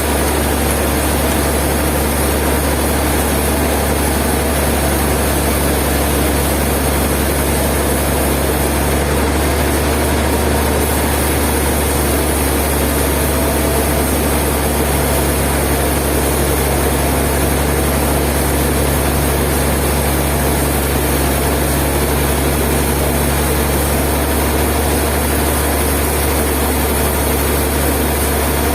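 Sawmill machinery running: a steady low engine drone that holds the same pitch and level, with no cutting bursts or changes in load.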